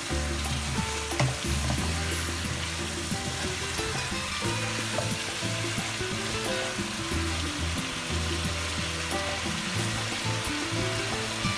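Chicken pieces sizzling as they fry in oil and masala in a karahi, stirred with a wooden spatula that clicks and scrapes against the pan now and then. Background music with held low notes plays underneath.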